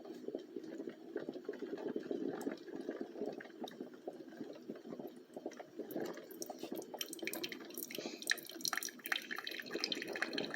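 Hamilton Beach Scoop single-serve coffee maker brewing: hot water running and dripping through the grounds into the cup. A dense run of small clicks and spatters joins in about seven seconds in.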